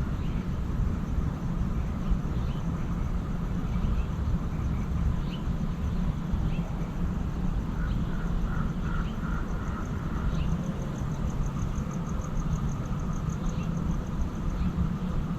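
Lakeside dawn ambience: a steady low rumble under scattered short bird chirps. About ten seconds in, a fast, even, high-pitched trill begins and runs on.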